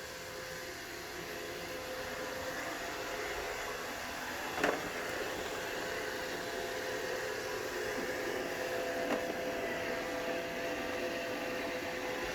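Roomba robot vacuum running with a steady motor whirr and whine, growing a little louder over the first few seconds as it moves about while trying to dock. A sharp knock about four and a half seconds in and a fainter one around nine seconds.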